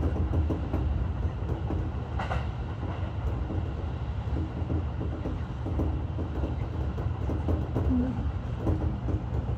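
Electric commuter train running along the rails, heard from inside the driver's cab: a steady low rumble with scattered faint clicks from the wheels.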